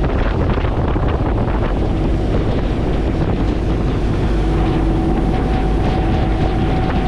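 OceanJet fast ferry underway: a steady rush of engine and water noise with wind buffeting the microphone. A steady hum joins in about halfway through.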